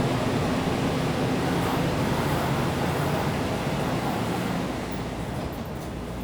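Train running with a steady rolling noise and a low hum, getting a little quieter near the end.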